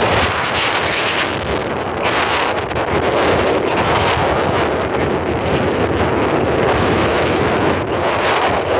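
Strong gale-force wind blowing in gusts, a loud continuous rushing that swells and eases, buffeting the microphone.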